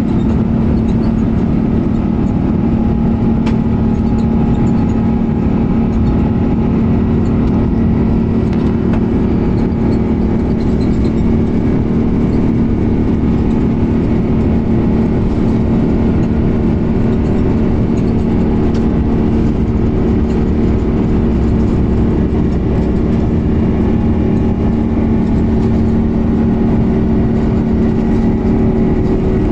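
Airbus A350-900's Rolls-Royce Trent XWB engines at takeoff thrust, heard from inside the cabin, with the low rumble of the takeoff roll. The noise climbs sharply right at the start as the engines spool up, then holds loud and steady with a constant hum.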